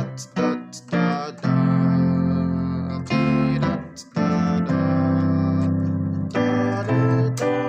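Keyboard playing a gospel-style chord progression in C major on a grand piano voice layered with a second voice: a few short chords, then long held chords, then shorter chords again near the end.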